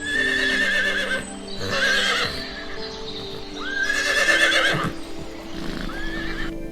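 Horse whinnying in about four wavering calls, over soft background music.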